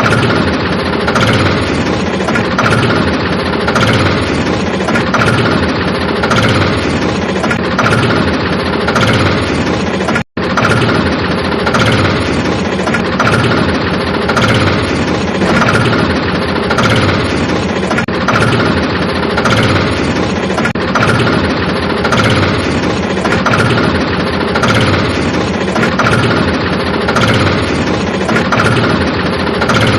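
Engine idling steadily, with an even throb about once a second. The sound cuts out for an instant about ten seconds in.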